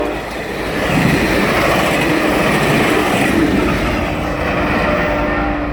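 Amtrak passenger train rolling past, loud: the steady rumble and rattle of its wheels and cars on the rails.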